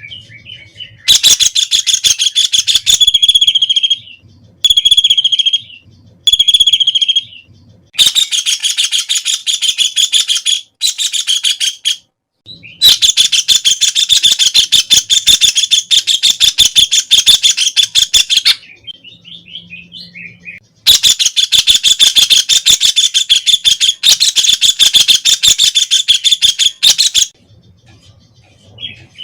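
White-throated kingfisher (Halcyon smyrnensis) giving its rapid rattling trill, repeated in runs lasting from about one to six seconds with short pauses between them.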